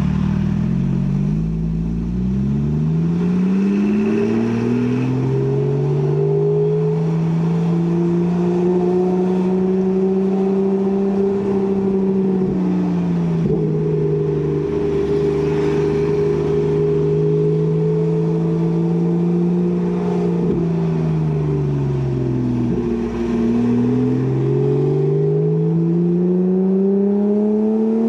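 Porsche 991 Carrera S flat-six running through a Kreissieg valvetronic cat-back exhaust while accelerating. The engine note climbs over the first few seconds, holds steady for a long stretch, falls away past the two-thirds mark and then climbs again before dropping sharply near the end.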